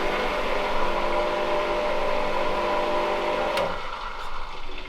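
Electric water pump motor running steadily with a hum and a whine but not moving water, which the owner suspects has lost its prime. It stops about three and a half seconds in.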